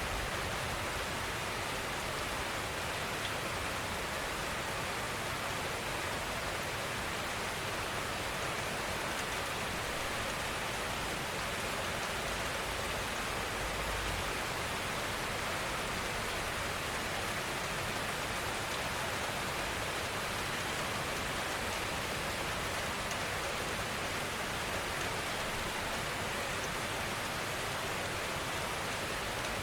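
Steady rainfall, an even hiss of many drops with no single drop standing out.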